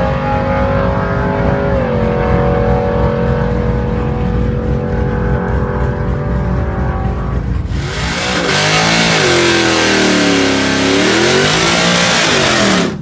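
Drag racing vehicle engine held at steady high revs, its pitch dropping slightly about two seconds in. About eight seconds in it gives way to a louder, rougher roar whose pitch falls and rises again, which cuts off suddenly at the end.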